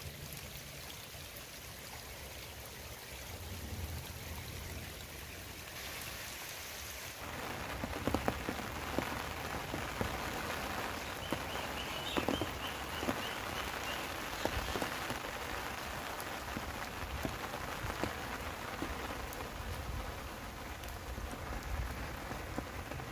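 Steady rain falling on wet mud and puddles, a constant hiss with many individual drop hits. It gets louder, with closer and more distinct drops, about seven seconds in.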